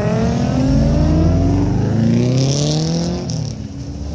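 Nissan 370Z's V6 engine accelerating hard away. The revs climb in a rising pitch, drop back at a gear change and climb again.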